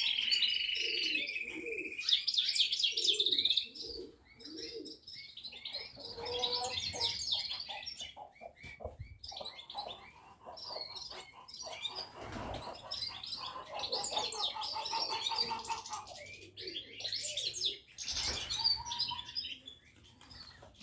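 Several songbirds chirping and singing together in overlapping rapid chirps and trills, loudest in the first few seconds.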